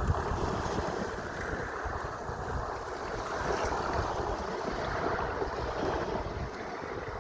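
Sea waves washing steadily, swelling and easing slowly, with wind buffeting the microphone in low rumbles.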